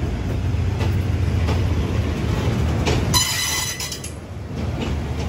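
A passenger train rolling on the rails with a steady low rumble and faint wheel clicks. A brief high squeal comes about three seconds in.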